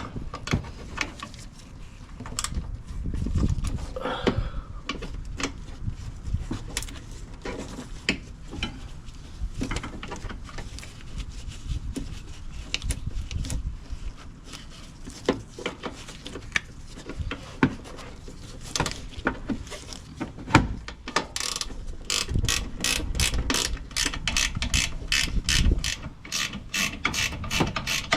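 Hand ratchet wrench clicking on a fastener, first in irregular strokes with scattered knocks of tools and parts, then near the end in a steady run of about three to four clicks a second.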